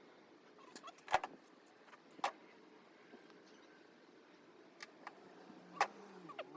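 A few sharp clicks and knocks of parts or tools being handled during work on a pickup's sunroof. The loudest comes about a second in, and they sit over a faint steady hum.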